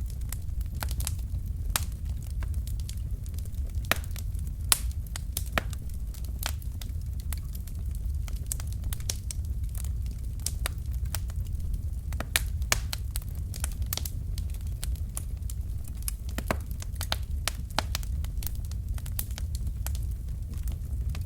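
Wood fire burning in a fireplace: irregular sharp pops and crackles of burning logs over a steady low rumble of the flames.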